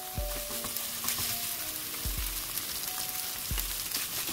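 Beef strips sizzling in hot oil with minced scallion and ginger in a nonstick wok, stirred with a silicone spatula and chopsticks: a steady hiss of frying. Soft background music with low notes plays underneath.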